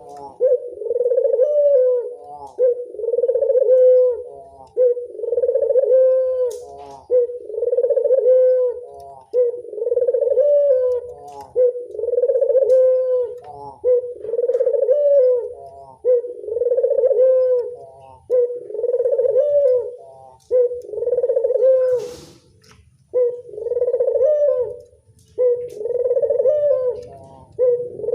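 Puter dove (Barbary dove) cooing over and over, one low, rolling coo after another, about one every two seconds. A single sharp click breaks in about three-quarters of the way through.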